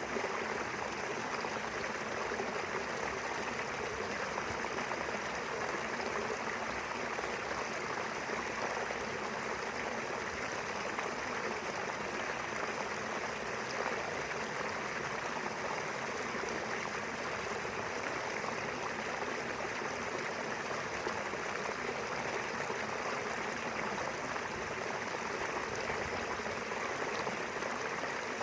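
Small river running steadily over its bed, a continuous even rush of water.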